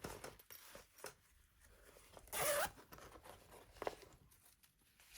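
Hands rummaging through ribbons and craft supplies: light rustles and small clicks, with one short zipper-like rasp about two and a half seconds in.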